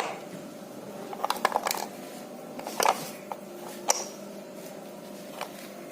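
Scattered light metallic clinks and taps, a few separate knocks a second or so apart, as small metal engine parts and tools are handled, over a faint steady hum.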